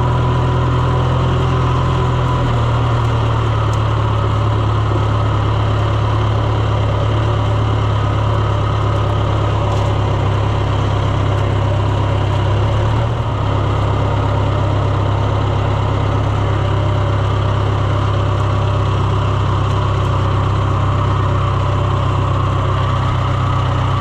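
A vehicle's engine running steadily, with a brief dip in its note about halfway through.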